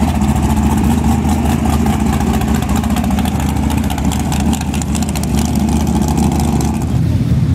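Mega mud truck's engine idling loudly with an even, rapid pulse; the sound changes about seven seconds in.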